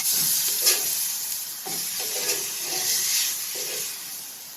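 Ribeye steaks sizzling on a hot cast iron grill, a steady frying hiss that dies down near the end.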